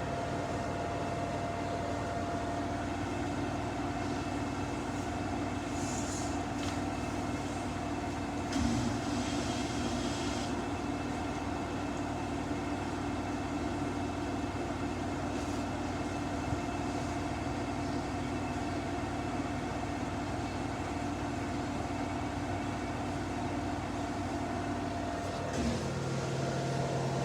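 Samsung washing machine running a long spin with a single jacket inside: a steady mechanical hum with several held tones. It is a one-garment load that the washer struggles to balance.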